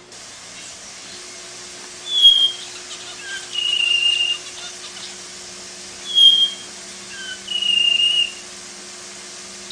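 Long-tailed paradise whydah singing: a short, high whistled note followed by a longer, steady whistle, the pair given twice about four seconds apart, with a faint steady hum underneath.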